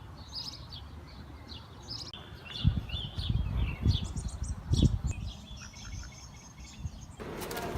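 Small birds chirping and tweeting in quick, scattered calls, with a few low rumbles in the middle. The background changes abruptly near the end.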